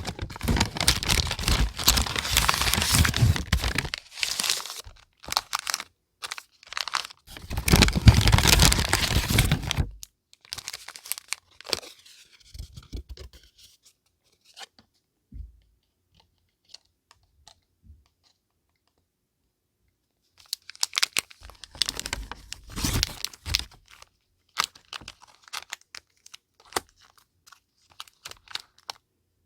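Paper and packaging being handled, rustled and torn in bursts, with a quiet pause of several seconds in the middle.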